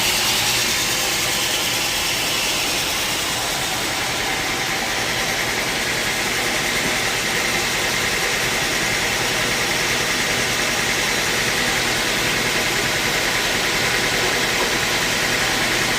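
Sawmill wheel saw running steadily, a constant loud mechanical noise with no breaks.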